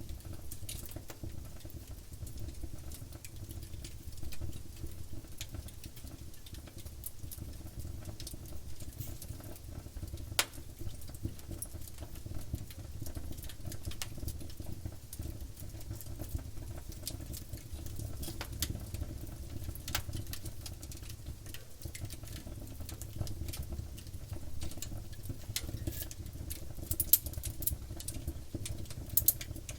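Wood campfire burning: a steady low rumble of flames under scattered sharp crackles and pops of burning wood, with a few louder snaps near the end.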